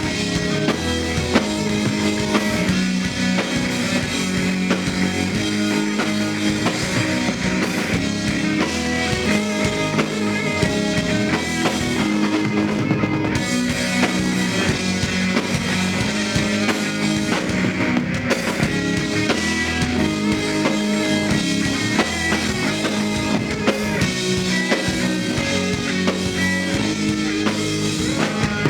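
Live rock band playing an instrumental passage with drum kit and electric guitars, a steady beat throughout.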